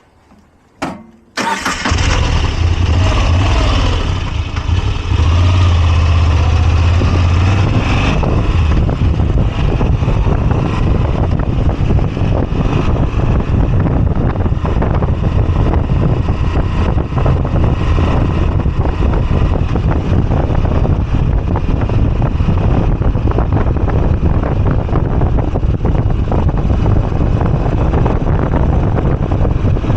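Moto Guzzi V85TT's air-cooled V-twin engine starting: a brief crank about a second in, catching about a second and a half in, then running steadily with a deep, loud rumble.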